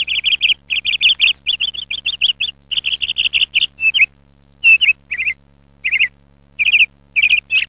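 A small songbird chirping: quick runs of short, sharp chirps at about five a second, then after a brief pause about four seconds in, fewer chirps spaced further apart.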